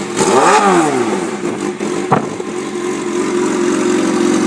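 2006 Kawasaki Ninja ZX-6R's inline-four engine, running without its exhaust, revved once in a quick blip that rises and falls in pitch, then idling steadily. A single sharp click about two seconds in.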